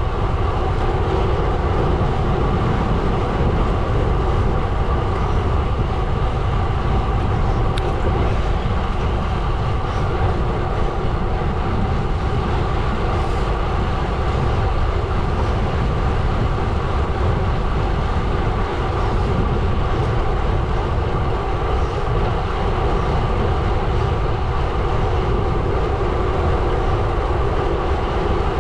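Gravel bike rolling along a gravel road: the steady, unbroken rumble of the tyres on gravel and the running drivetrain.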